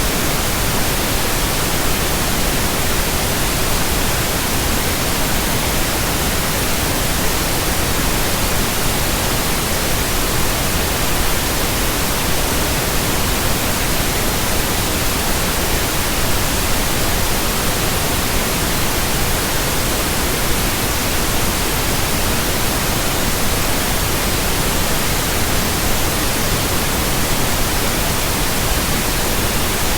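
Steady synthetic pink noise, an even hiss spread across all pitches, unchanging throughout.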